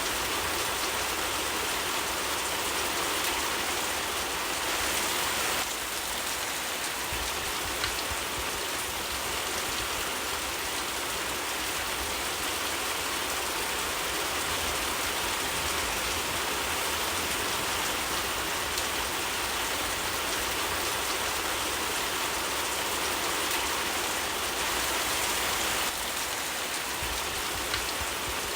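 Steady heavy rainfall, an even hiss of drops on surfaces, with a couple of small clicks standing out briefly.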